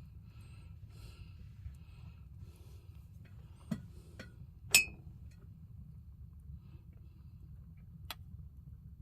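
Tableware being handled for a meal: a few light clicks and one loud ringing clink of glass or crockery about halfway through, over a low steady hum.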